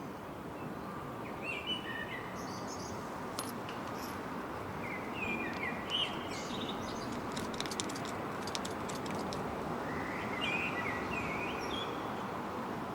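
Small songbirds chirping in three short bouts over a steady background hum of outdoor ambience.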